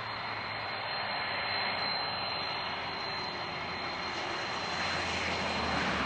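Airliner engines running as a plane passes: a steady rushing noise that swells near the end.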